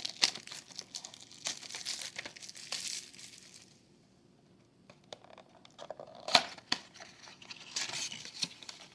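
A trading-card box being opened by hand: its packaging crinkling and tearing in bursts, a pause of about a second near the middle, then more handling with a sharp snap about six seconds in.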